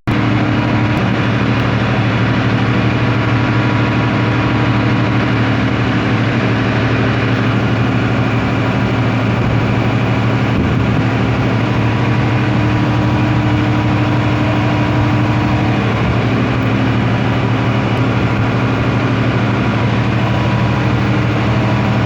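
Steady machine hum with a strong low drone and overtones, unchanging throughout.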